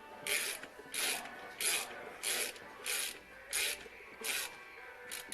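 Hand work on the turbo's threaded oil feed fitting: eight short rasping strokes, evenly spaced about two-thirds of a second apart.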